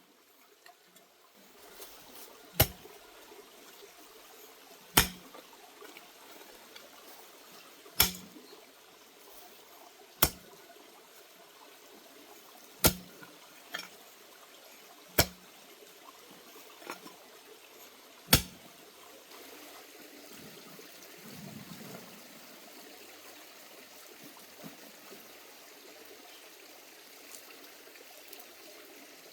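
Sharp knocks, seven loud ones spaced about two to three seconds apart with a couple of weaker ones between, then stopping in the second half, over a steady hiss like running water.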